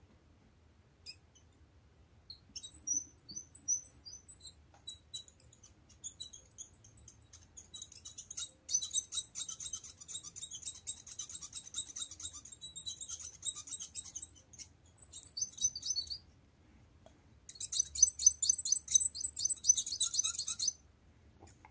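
Old Erudit manicure nippers being worked open and shut with the spring held aside: the metal joint squeaks in quick runs of high-pitched squeaks, the sign of a dry, unlubricated joint. The squeaking starts about two seconds in, stops briefly near the end, then resumes.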